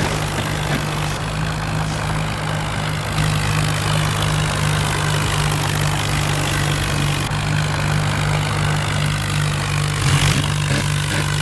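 Tractor diesel engine running steadily, with a brief rise in level about ten seconds in.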